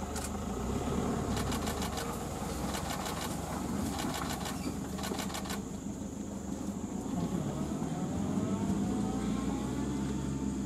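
A vehicle engine running steadily at low speed, with several runs of rapid, evenly spaced clicks in the first half and a few slow rising tones in the second half.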